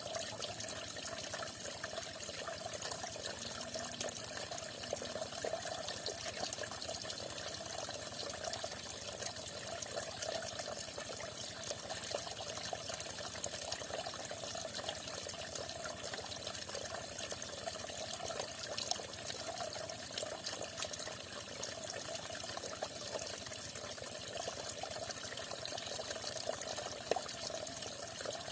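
Falling water splashing and trickling in a steady, unbroken stream.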